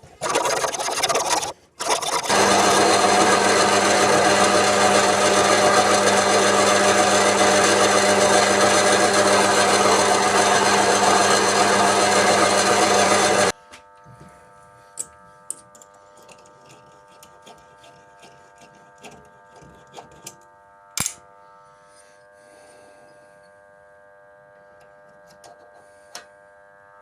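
A workshop power tool running loudly and steadily for about eleven seconds after a short burst, then stopping suddenly. A faint steady hum with a few small clicks and knocks follows.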